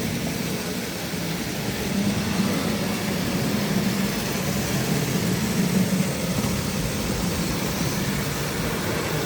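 Tri-ang model railway goods train running along the track: a steady electric motor hum with wheel-on-rail noise, a little louder from about two seconds in and easing back near the end.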